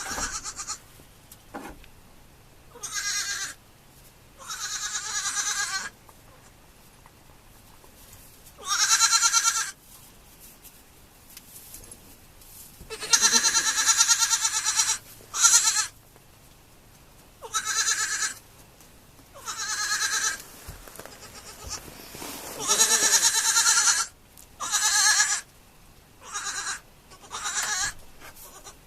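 Baby goats bleating: a string of about a dozen high, wavering calls, each half a second to two seconds long, with short pauses between them.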